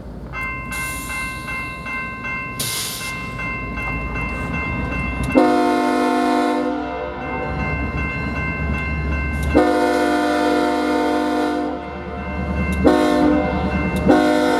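Freight locomotive air horn blowing the grade-crossing signal, long, long, short, then a final long blast starting near the end, over the rumble of the approaching diesel engines. A crossing bell rings steadily throughout.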